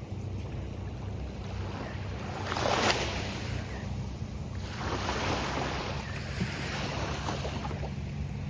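Gulf of Mexico surf breaking and washing up the beach in slow swells, the loudest wave about three seconds in and another starting about five seconds in, over a low rumble of wind on the microphone.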